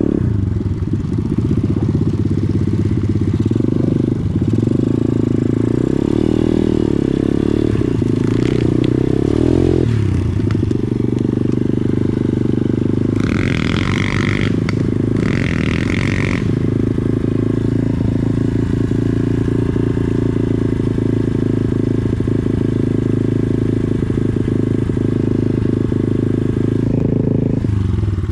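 Pit bike's small single-cylinder engine running steadily under way, its note shifting about ten seconds in. Two brief high-pitched sounds come about halfway through.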